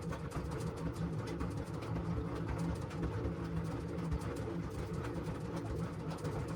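LG washing machine running a wash cycle: a steady low rumble with a fluctuating, churning texture.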